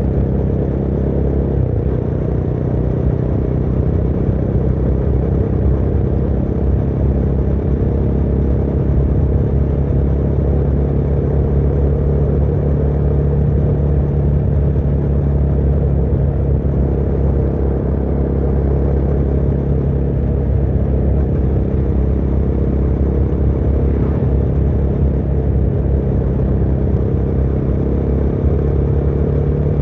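Motorcycle engine running steadily at cruise, a low, even drone with little change in pitch.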